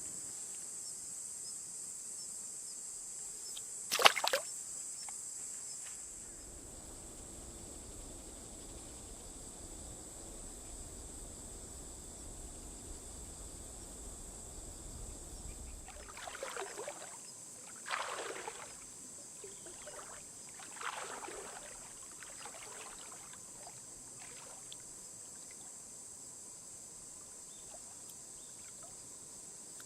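Steady high-pitched chirring of crickets, with a single sharp click about four seconds in and several brief noises in the middle stretch.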